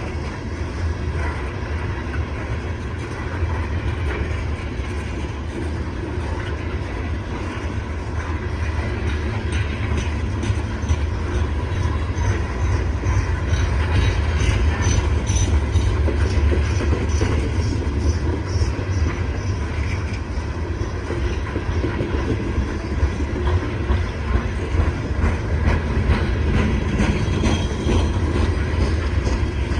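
Coal train's freight cars rolling past: a steady low rumble with wheels clicking over the rail joints, and a faint high wheel squeal about halfway through.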